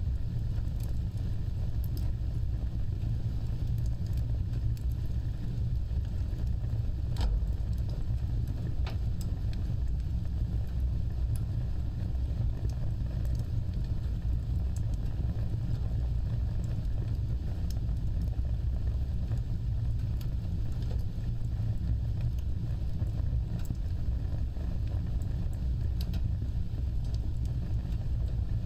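Wood fire burning: a steady low rumble of flames with scattered sharp crackles and pops, the clearest about seven seconds in.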